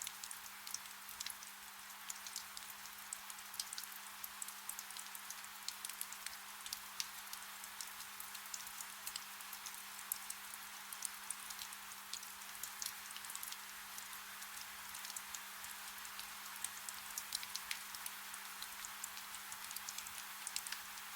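Soft steady rain, a soft hiss dotted with many separate drops ticking, with a faint steady low hum underneath.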